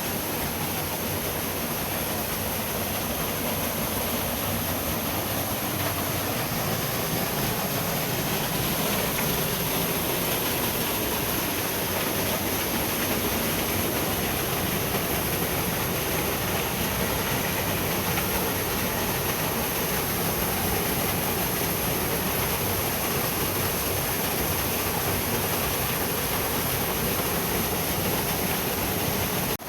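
Water of a gorge stream rushing steadily, a loud, dense, unbroken noise.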